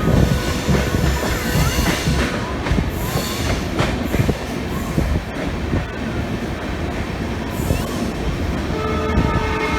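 Moving train: a steady rumble and clatter of wheels on the rails, with a few brief wheel squeals. Near the end, a train horn starts and holds a steady tone.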